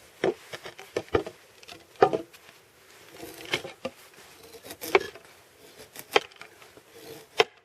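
A knife working a split firewood log into tinder against a wooden board. Irregular sharp wooden knocks come about once a second, with fainter scraping between them.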